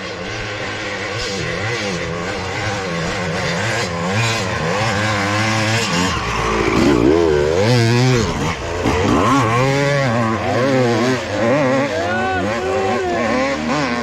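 Dirt bike engines revving hard on a steep hill climb, the pitch rising and falling as the throttle is worked, loudest about halfway through as a bike comes close.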